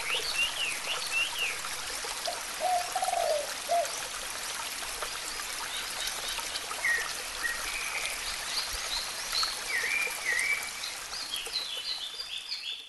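Birds singing over a steady trickle of running water: many short chirps and whistled calls, with a lower call of a few notes about three seconds in.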